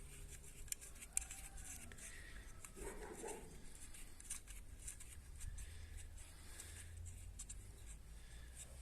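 Faint scattered clicks and taps with a short rustle about three seconds in: small parts being handled by hand, over a low steady hum.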